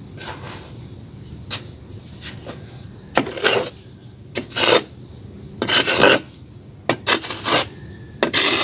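Rain-dampened red grainy chunks being crushed and crumbled on a floor: a series of short gritty crunches and scrapes at uneven intervals, the longer and louder ones coming in the second half.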